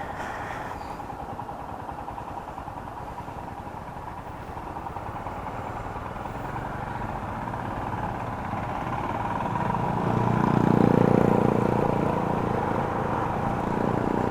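Motorcycle riding in city traffic: the engine runs under steady wind and road noise. An engine note swells about ten seconds in and eases off again.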